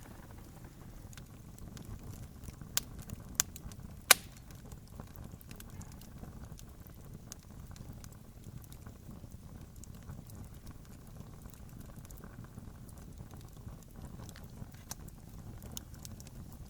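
Campfire crackling steadily over a low rumble, with three sharp pops about three to four seconds in, the last the loudest.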